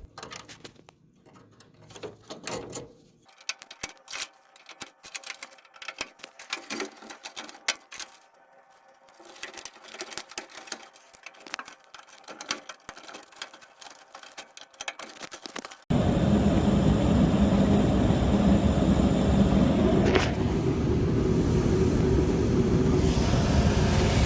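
Light scattered clicks and taps of small parts being handled on a furnace. About two-thirds of the way in, an abrupt cut to a loud, steady noise with a strong low rumble.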